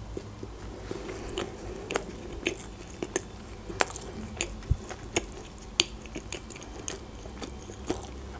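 A person chewing a mouthful of McChicken sandwich (breaded chicken patty, bun and iceberg lettuce) close to the microphone, with irregular crisp crunching clicks about one or two a second.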